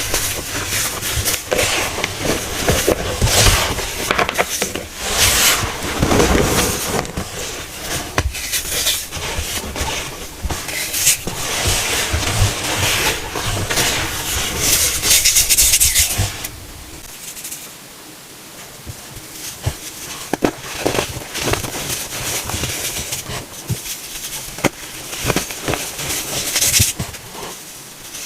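Dried baking-soda cones being crushed, a dense crumbly crunching and crackling; it turns quieter and thinner about 17 seconds in, then picks up again.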